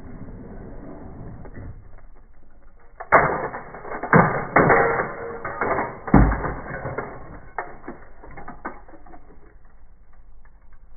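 Metal die-cast toy cars clattering against each other as they are poured out of a bin. The impacts come in a dense run, loudest from about three to seven seconds in, then thin out to scattered clicks.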